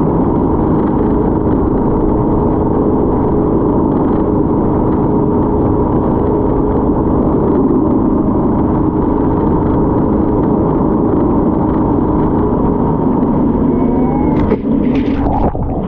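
Speedboat's engines running steadily at speed, a loud constant drone. Near the end there are a few sharp hits and the noise briefly drops.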